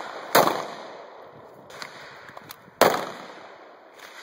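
Two handgun shots about two and a half seconds apart, each a sharp crack with a brief echoing tail, with a couple of faint clicks between them.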